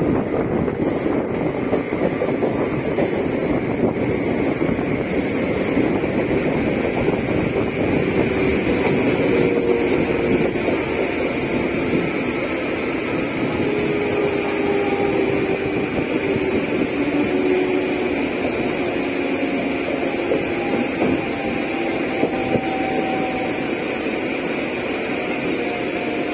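Freight train of container flat wagons rolling past, a steady loud rumble and rattle of wheels on the rails, with faint thin squeals coming and going from about nine seconds in.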